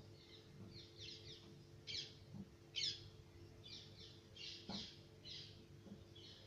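Small birds chirping faintly in quick clusters of high notes, with two sharper chirps about two and three seconds in, over a steady low hum.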